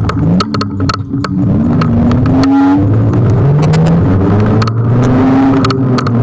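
Kugoo G1 electric scooter riding, its motor whine gliding up and down in pitch with speed, with frequent sharp rattles and clicks from bumps in the surface.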